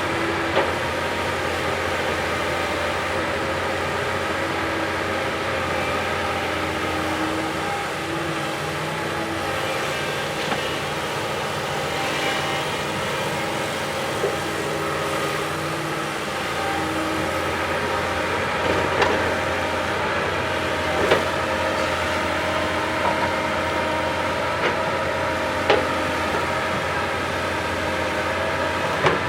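Backhoe loader's diesel engine running steadily under work, with occasional sharp knocks or clanks, several in the second half.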